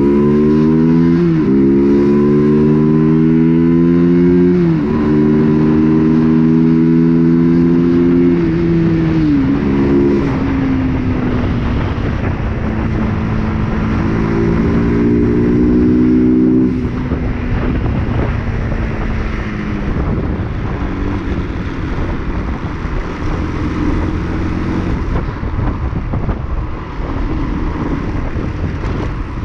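UM RS 125 motorcycle's 125 cc single-cylinder engine pulling up through the gears on a test ride: the pitch climbs and drops sharply at about three upshifts in the first nine seconds, then holds steadier at speed. About seventeen seconds in the engine eases off and a steady noisy rush is left.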